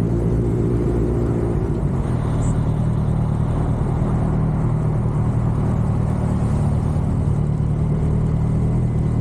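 Motorcycle engine running steadily while riding, over a continuous rushing noise; the engine note shifts slightly about two seconds in.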